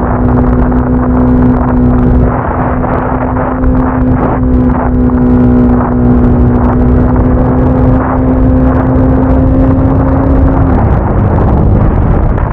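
Motorcycle engine running at a steady cruising speed under heavy wind buffeting on the microphone; its pitch creeps slightly higher, then drops near the end as the throttle is eased.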